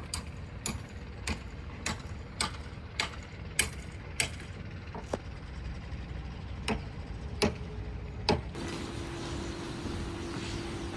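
A run of sharp clicks or taps, about one every 0.6 s for four seconds, then a few more spaced out and stopping about eight seconds in. A steady low hum starts about eight and a half seconds in.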